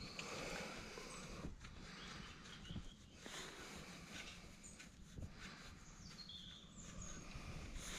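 Faint birdsong: short high chirps every second or two over quiet outdoor background noise, with a few light clicks from hand tools being worked on the motorcycle's frame bolts.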